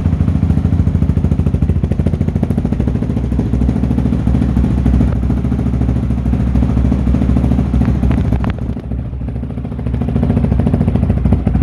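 2022 Honda CRF450RL single-cylinder four-stroke engine idling steadily through a newly fitted FMF titanium exhaust with a carbon-fibre tip, freshly started and warming up. The sound dips briefly about nine seconds in, then returns.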